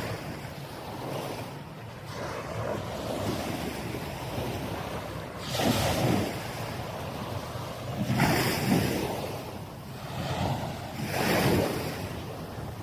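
Waves washing onto a sandy beach, swelling into three louder surges about three seconds apart in the second half, with wind buffeting the microphone.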